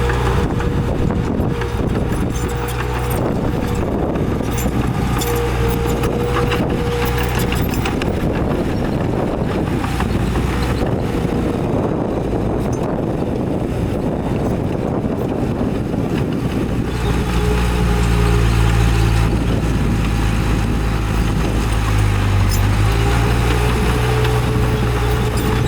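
Heavy diesel earthmoving machinery running steadily under load, with dense clattering and rattling of soil and rock for the first two-thirds. After that, the engine's steady drone comes through more plainly.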